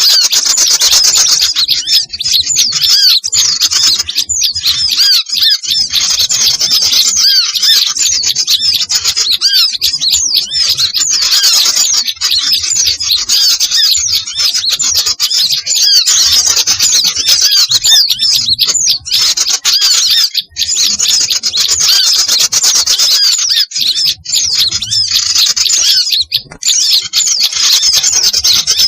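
A dense, busy chorus of many small songbirds chirping and calling over one another without a break: a mixed small-bird lure recording of the kind used to draw birds in for trapping.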